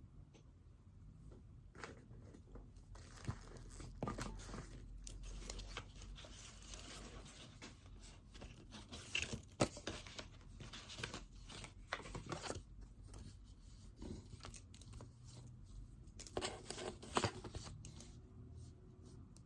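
Faint rustling and crinkling, with scattered small clicks and knocks, as things are handled at a desk; the longer rustles come in three stretches, the last near the end.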